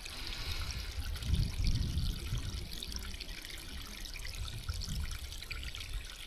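Small creek trickling steadily, with irregular low rumbles on the microphone.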